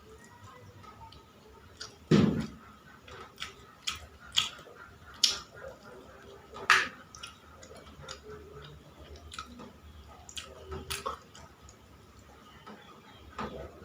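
A person eating: chewing with scattered small clicks and knocks, the loudest knock about two seconds in.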